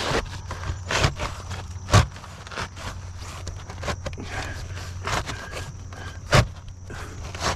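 Roofing work on a shingled roof: shingles and flashing scraping and shuffling as they are handled and fitted, with two sharp knocks, one about two seconds in and one near the end, over a steady low hum.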